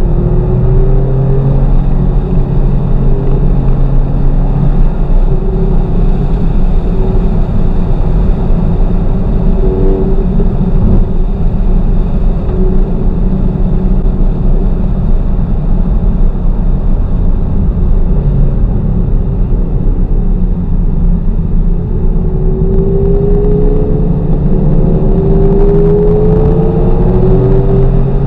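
2019 Porsche 911 Targa 4S's twin-turbo flat-six heard from inside the cabin at speed on a race track, its note rising and falling with throttle and gears over steady road noise. Near the end the engine pulls hard, its pitch climbing for several seconds.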